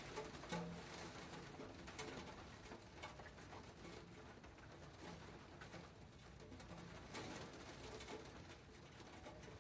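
Faint, steady rain with single drops striking now and then, and a bird cooing low several times over it.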